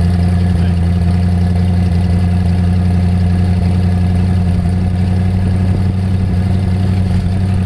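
Twin-turbocharged 440 big-block V8 running steadily, its low pitch holding even with no revving.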